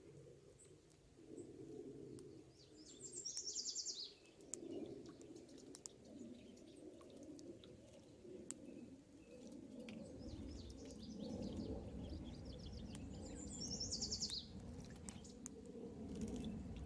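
A bird singing: two short, rapid trilled phrases that drop in pitch, about ten seconds apart, over a low background rumble with a few faint clicks.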